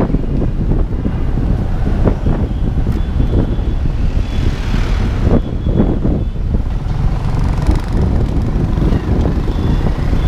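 Motorbike in motion: engine and road noise with wind buffeting the microphone, steady throughout.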